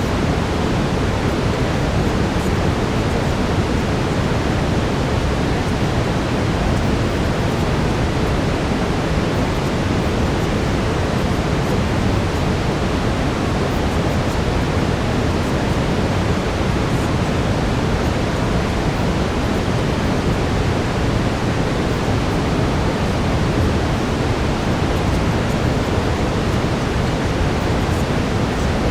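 Brown noise: a steady, unbroken rushing hiss, deepest and strongest in the low end.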